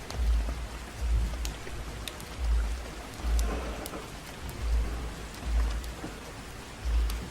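Steady rain hiss with the sharp pops and snaps of a crackling wood fire. Under it, a deep low thump recurs in pairs about every two seconds and is the loudest sound.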